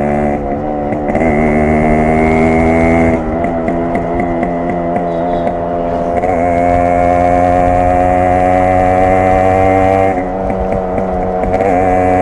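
Yamaha RX 100's two-stroke single-cylinder engine and exhaust running under way at steady revs. About three seconds in and again about ten seconds in, the throttle is briefly eased, the note drops, and then it pulls steadily again.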